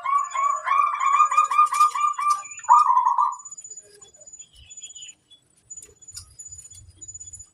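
Zebra dove (perkutut) singing its cooing song: a fast run of short staccato coos, about five a second, ending in a longer drawn-out coo about three seconds in, after which it goes quiet.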